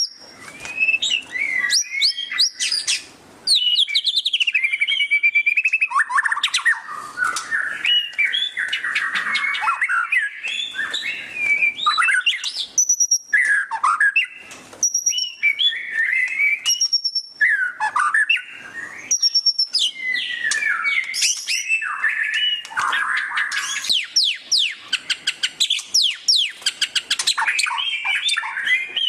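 White-rumped shama (murai batu) singing loudly and without pause, mixing clear whistled phrases with fast chattering trills ('ngeriwik'). Runs of very rapid trills stand out between about 7 and 10 seconds in and again near the end.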